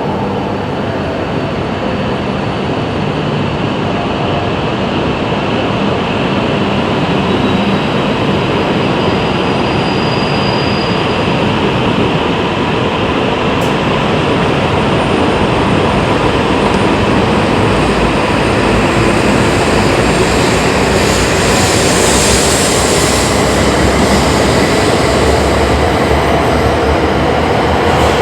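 Shinkansen bullet train running at the platform: a steady, loud rush of running noise that grows gradually louder, brightening into a hiss in the last third.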